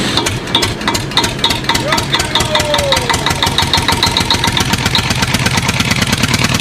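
An engine running with a rapid, even pulse. A short gliding tone rises and falls about two seconds in.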